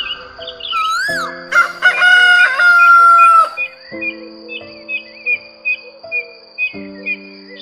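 A rooster crowing once, a loud drawn-out call of about two seconds, over steady background music, followed by a run of short bird chirps.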